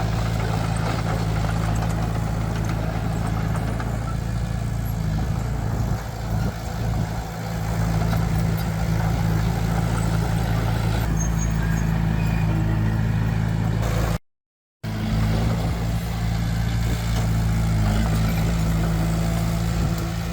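Heavy diesel engine of construction machinery running steadily with a low, even drone, dipping briefly about six seconds in. The sound cuts out completely for about half a second a little past the middle, then returns.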